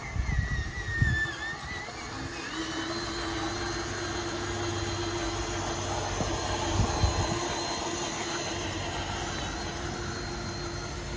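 Small electric motor of an RC construction truck running with a steady whine that shifts pitch in the first couple of seconds, with low thumps about a second in and again around seven seconds.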